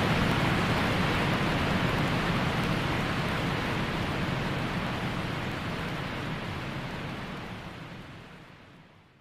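Steady white noise for lulling a baby to sleep, an even rain-like hiss with a low rumble underneath, fading out over the last two seconds.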